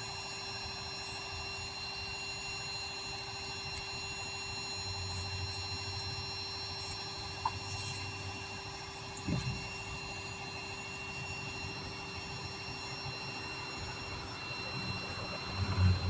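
Distant vehicle engine running under a steady electrical hum, the engine growing louder near the end.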